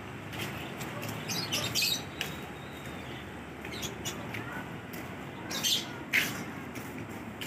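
A few short, sharp bird chirps, grouped about a second and a half in and again around six seconds in.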